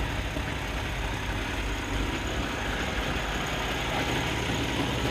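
Kenworth T680 semi-truck's diesel engine idling steadily.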